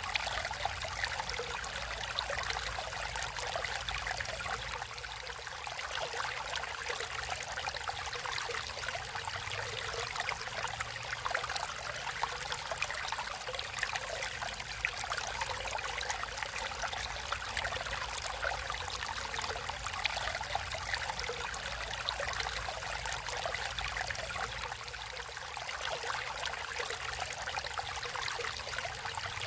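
Water of a natural stream flowing and trickling steadily over rocks.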